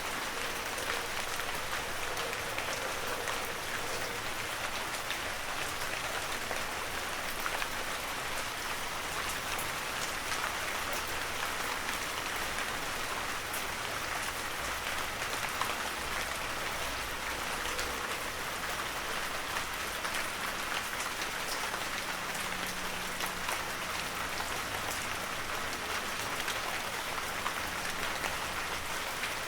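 Heavy rain falling steadily on forest foliage and ground, a dense even hiss with many small drop patters.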